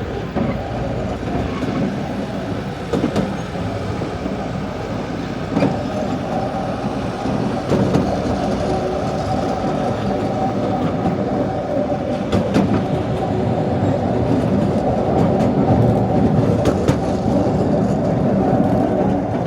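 Artouste narrow-gauge mountain train running along its track: a steady rumble of the moving carriages, with occasional sharp clicks of the wheels over the rails. It grows a little louder in the second half.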